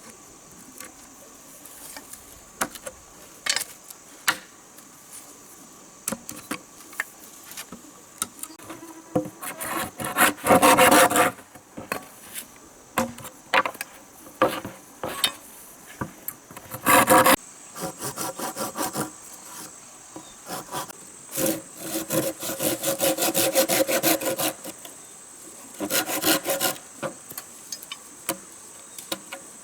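Wood being worked by hand with a blade or saw: irregular rasping, scraping strokes and knocks, in short runs with pauses between them. A steady high insect drone goes on behind.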